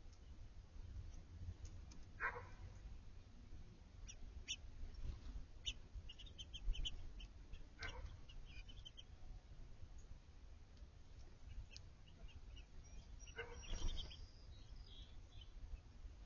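Small backyard songbirds giving scattered short, high chirps, busiest in the middle and again near the end, over a low steady rumble. Three brief louder rustles stand out, about two, eight and fourteen seconds in.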